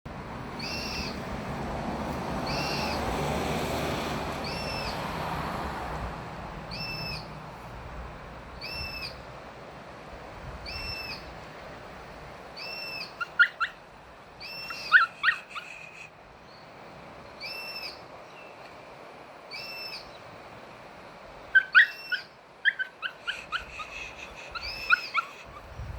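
Black cockatoo giving a call repeated about every two seconds. About halfway through, and again near the end, a Tenterfield terrier lets out short, high whines. A rushing noise fills the first few seconds.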